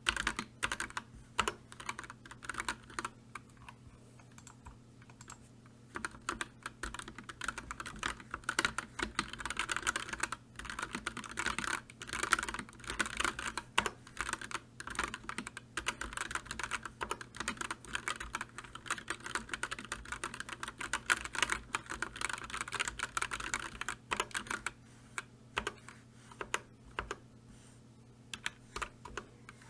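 Fast typing on a computer keyboard: dense runs of quick key clicks, pausing briefly about four to six seconds in and again near the end, over a faint steady low hum.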